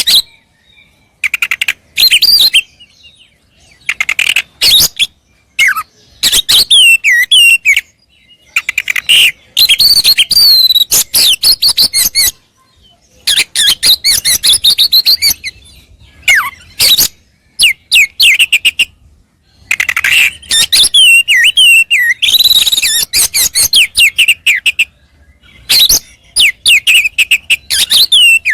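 Oriental magpie-robin (kacer) singing loudly in repeated bursts of rapid whistles, slurred glides and chattering notes, with short pauses between phrases. This is a fired-up bird in full song, running through its repertoire of learned phrases.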